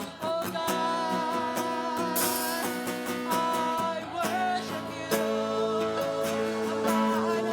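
Live worship band music: a sung melody over guitar, with a steady drum beat.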